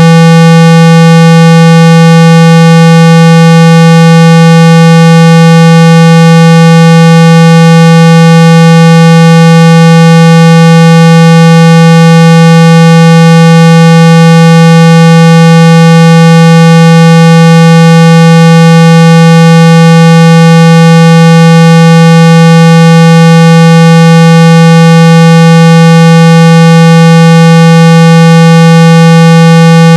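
A steady, very loud 165 Hz tone with a buzzy edge from its many overtones, unchanging in pitch and level. It is a speaker-cleaning tone, played to shake water and dust out of an iPhone's speaker.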